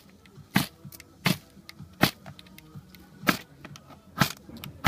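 A series of six sharp strikes at uneven intervals, roughly one every second or less.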